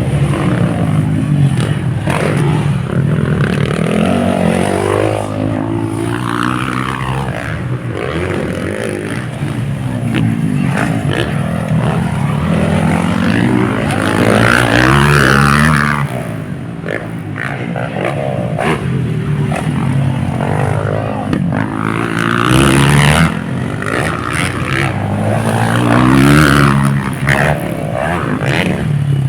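Motocross dirt bikes racing, engines revving up and falling back repeatedly as they accelerate and shift, several bikes overlapping. The loudest passes come about halfway through and again near the end.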